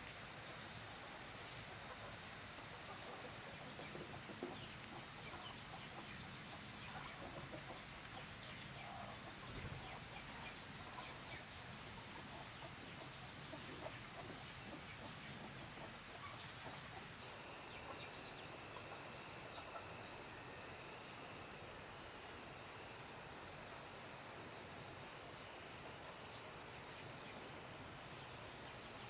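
Chickens clucking now and then over a steady high insect drone. In the second half a short high chirp repeats about once a second.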